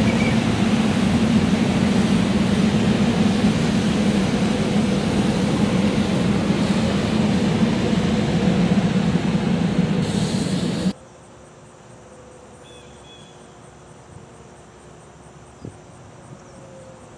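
SEPTA Silverliner IV electric multiple-unit train running past on the rails, a steady rumble of wheels and cars. The sound cuts off abruptly about eleven seconds in, leaving a quiet background with a couple of faint clicks.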